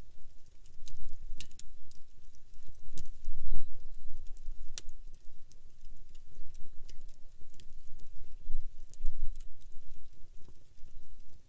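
Wood campfire crackling, with irregular sharp pops and snaps, a few louder ones about three and five seconds in, over a low rumble.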